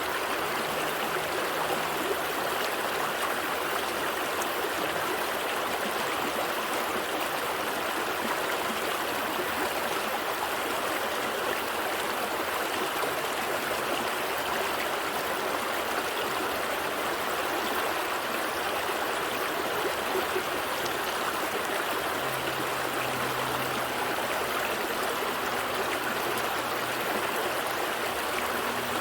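Gentle stream flowing, a steady, even rush of water.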